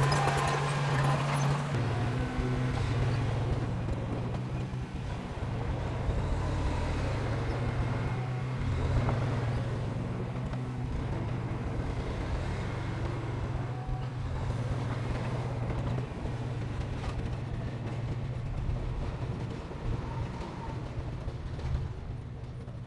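Heavy diesel engine of earthmoving machinery running steadily, a low drone whose engine speed drops slightly about two seconds in.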